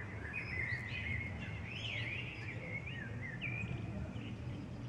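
A songbird singing a quick, warbling run of rising and falling chirps that stops shortly before the end, over a steady low rumble.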